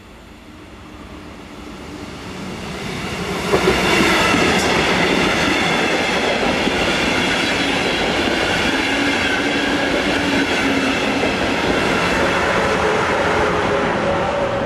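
Double-deck electric passenger train approaching and passing close by. Its rumble rises for a few seconds, then comes a couple of sharp clacks as the front reaches the tracks nearby. A loud, steady rush of wheels on rails follows while the coaches go by, and it begins to die away as the last coach passes.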